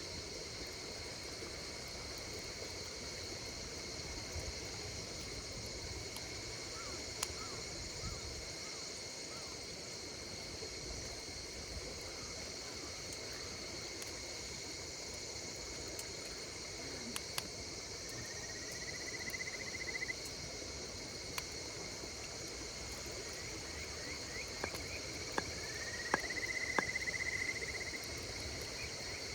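Steady chorus of insects calling in several unbroken high trills, with scattered sharp pops and crackles from a burning campfire. Twice, about two-thirds in and again near the end, a rising chirping call swells up over the chorus.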